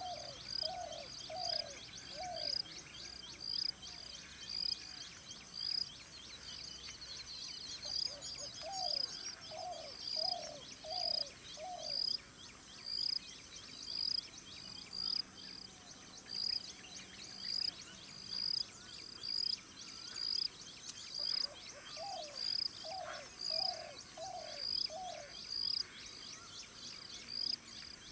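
Spotted dove cooing in three short runs of four or five low notes: at the start, in the middle, and again about three-quarters through. Under them a high chirp repeats about once a second, over a steady high hiss.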